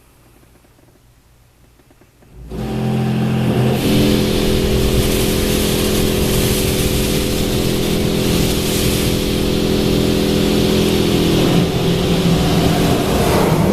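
Ryko RADIUS HT touch-free car wash machinery starts up suddenly about two seconds in and runs on loud and steady: a motor hum with several steady tones under a strong hiss.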